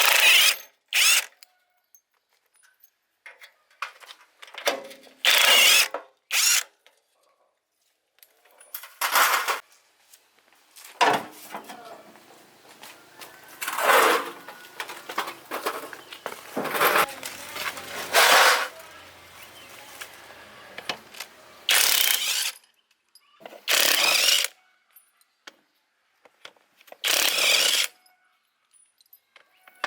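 Hand-held power tool run in short bursts of about a second, about ten times, with faint clinks of tools and parts in between.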